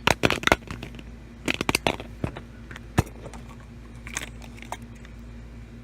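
Plastic surprise egg and its wrapping being handled and opened: bursts of crackling and crinkling, with a sharp snap about three seconds in and scattered small clicks after.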